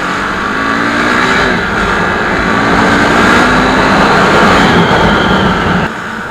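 Motorcycle engine pulling hard under acceleration, its pitch climbing twice over loud wind and road noise, then dropping off suddenly as the throttle closes near the end.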